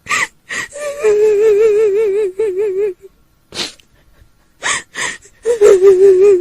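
A woman's voice crying as a kuntilanak ghost: short sharp gasping sobs, then a long, high wail with a fast trembling quaver, a second gasp, and the wail again near the end.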